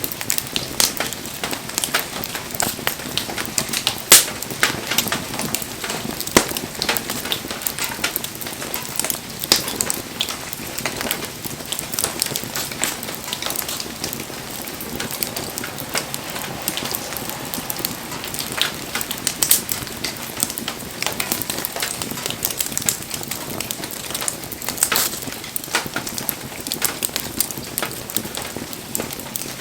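Wood bonfire burning, with a steady hiss and a dense run of small crackles and sharp pops; a few pops stand out louder, the loudest about four seconds in.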